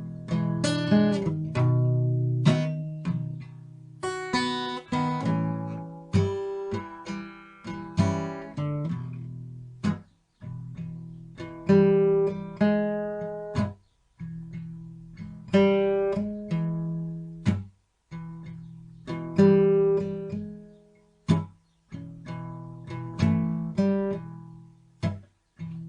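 Acoustic guitar music, plucked and strummed chords in phrases.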